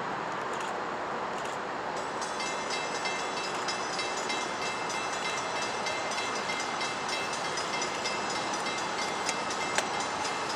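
Approaching BNSF crude-oil train, a diesel locomotive hauling tank cars, heard as a steady rushing rumble. About two seconds in a high, steady ringing joins it, and a single sharp click comes near the end.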